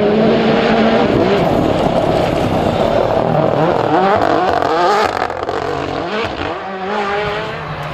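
Rally car engine at full throttle, its revs climbing and dropping again and again through quick gear changes. It is loudest for the first five seconds, then fades, with one more run of revs near the end.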